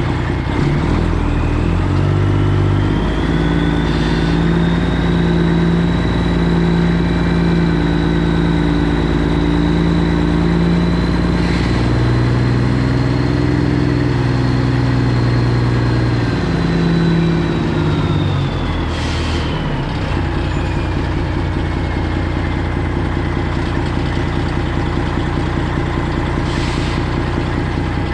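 Straight-piped Freightliner Classic XL's Detroit 12.7-litre diesel running. Its pitch shifts up and down over the first eighteen seconds, then it settles into a steady idle. A faint high whine rises and then falls away.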